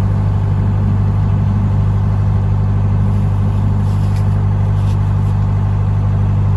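Narrowboat's inboard diesel engine running steadily under way, an even low drone.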